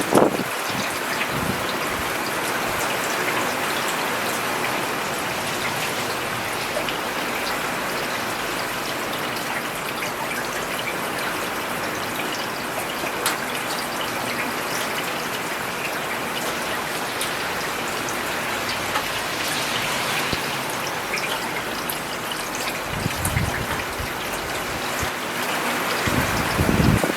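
Steady rain falling on a paved road, a dense even hiss of drops. A low rumble swells up briefly twice near the end.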